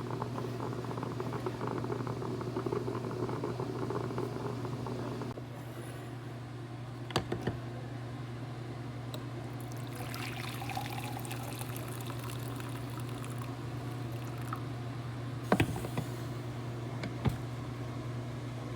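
Liquid pouring and gurgling over a steady low hum, with a few sharp clicks.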